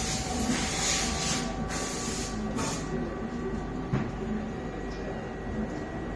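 Automatic fish gutting machine running with a steady mechanical hum. Surges of hissing come and go, then stop about three seconds in, and a single sharp click sounds near four seconds.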